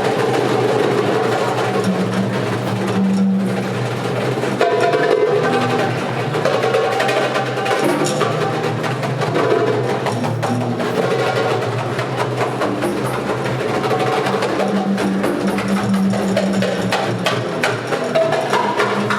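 A group of hand drums, darbukas among them, playing a dense rhythm together.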